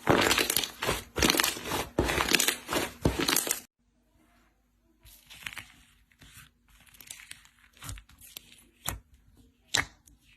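Slime being squeezed and stretched by hand, crackling and popping densely for the first few seconds; it cuts off abruptly, and after a brief silence quieter, scattered crackles and pops follow.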